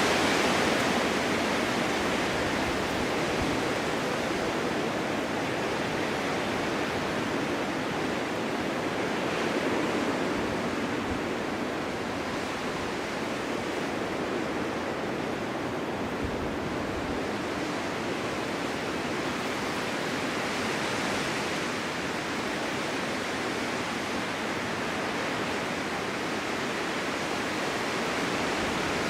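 Snowstorm wind blowing steadily, a continuous rushing noise that swells slightly a couple of times.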